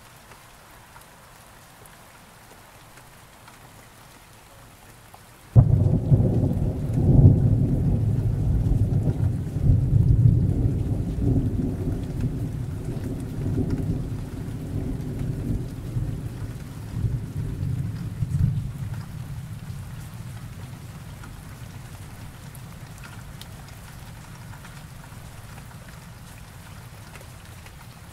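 Steady rain, then about five seconds in a sudden thunderclap that rolls on as a low rumble for over ten seconds before fading away under the rain.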